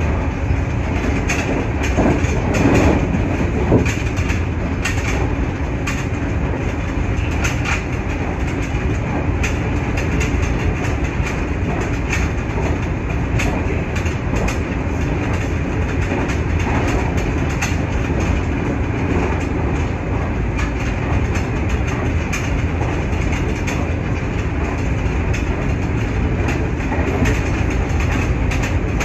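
Nankai 8300 series electric train running at speed, heard from inside the car: a steady low rumble of wheels on rail with irregular clicks over the rail joints, a little louder about two to four seconds in.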